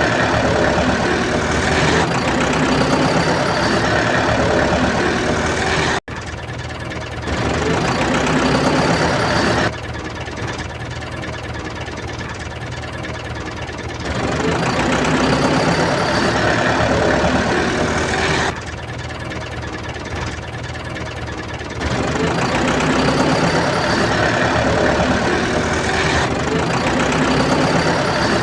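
A tractor-type engine running steadily with a knocking clatter. Its loudness drops abruptly about 6 s in and again at about 18 s, then jumps back up each time a few seconds later, like cuts between takes.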